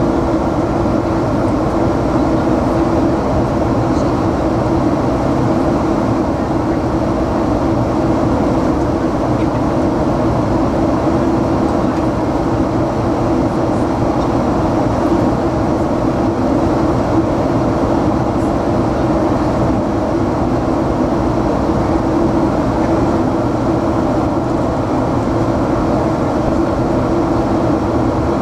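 Steady engine and airflow noise of a jet airliner heard inside the passenger cabin: an even rumble and hiss with a constant low hum, unchanging throughout.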